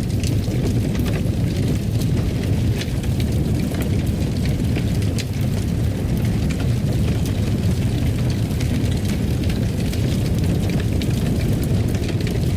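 Wood fire crackling in a fireplace: a steady low rumble of the flames with scattered small crackles and pops throughout.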